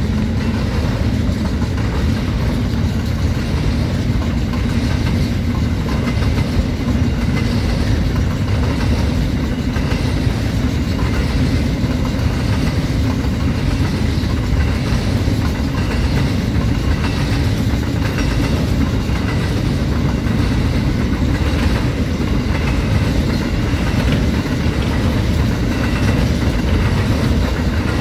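Covered grain hopper wagons of a freight train rolling steadily past. The wheels give a continuous low rumble with a regular clicking on the rails.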